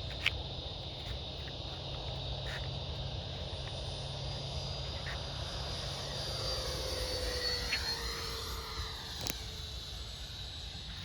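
Electric ducted-fan RC L39 Albatros jet whining as it flies past; its pitch slides down in the second half as it goes by. Under it runs a steady high chorus of night creatures, with a few small clicks.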